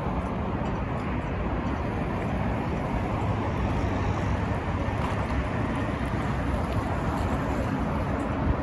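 Steady city street ambience of motor traffic running, with a constant low hum and no distinct events.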